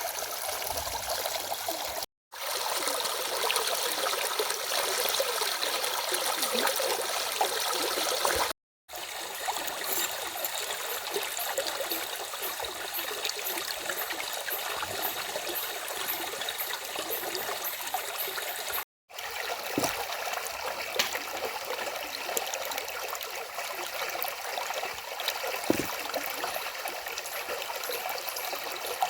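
Stream running: a steady rush and trickle of water, cut by three brief gaps of silence.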